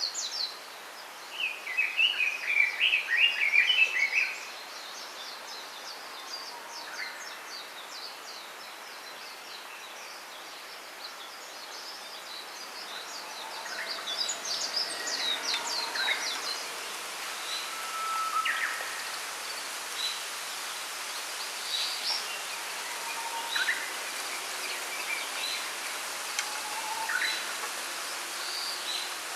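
Small songbirds calling in a bamboo grove: a loud chattering burst about a second in that lasts some three seconds, rapid high trills, and scattered single chirps over a soft steady hiss.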